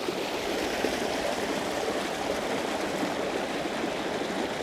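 Creek water rushing and splashing steadily over small rocky drops and falls.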